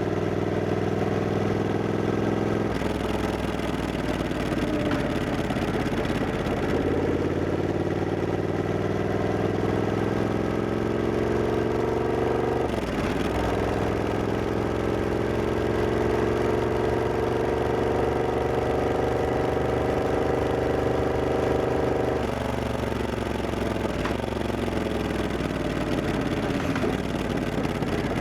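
Triumph Scrambler 1200X's parallel-twin engine pulling on the move, its pitch climbing slowly under throttle, dropping abruptly about halfway through at an upshift and climbing again. In the last few seconds the pitch falls away as the bike slows off the throttle.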